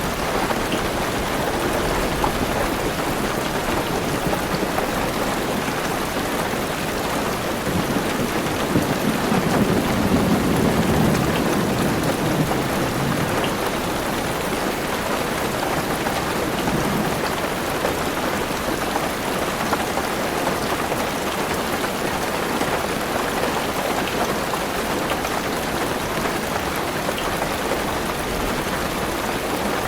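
Heavy rain falling steadily on a car roof, heard from inside the car. About eight seconds in, a low roll of thunder swells for several seconds and fades, with a smaller rumble a few seconds later.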